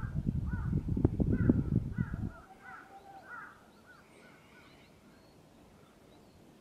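Birds calling in a quick series of short, repeated calls, with a few higher chirps after. Wind rumbles on the microphone for the first two and a half seconds or so, then drops away and it goes quiet.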